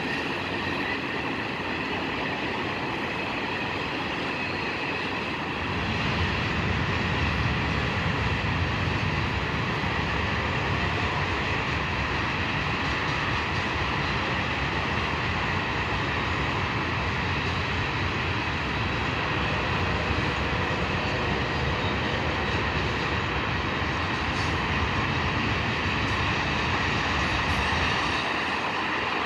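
A train rolling past on the rails, a steady rumble of wheels and cars that grows heavier about six seconds in and eases near the end.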